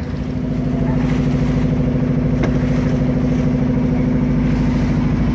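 Engine of a klotok river-taxi boat running steadily with an even chugging beat, picking up slightly in the first half-second.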